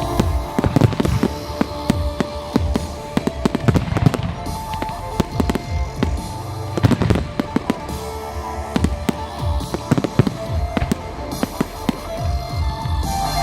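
Professional fireworks display: a dense, continuous run of bangs and crackles from shells bursting overhead, with music playing underneath.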